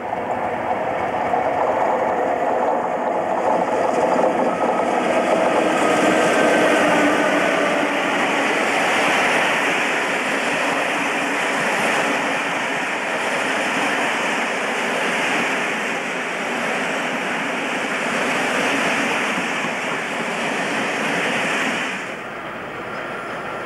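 Passenger train of InterCity coaches, hauled by a British Rail Class 87 electric locomotive, going by close at speed: a loud, steady rush of wheels on the rails and coaches passing. The sound drops abruptly near the end.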